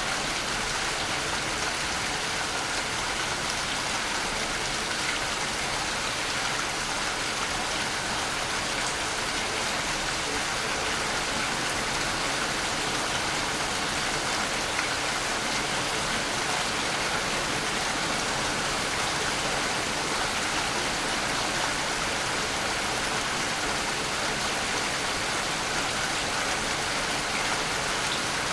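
Waterfall rushing: a steady, even wash of falling water with no change throughout.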